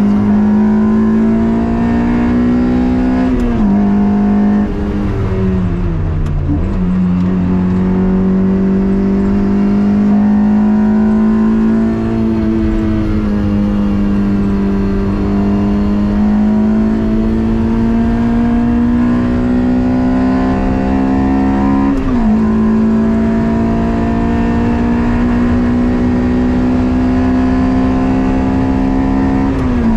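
Toyota MR2's swapped-in 2ZZ four-cylinder engine pulling hard at high revs, its pitch climbing slowly under load. Its pitch drops suddenly at upshifts about three and a half seconds in, around twenty-two seconds and at the very end. Between about four and six and a half seconds the revs sag as the car slows, then climb again.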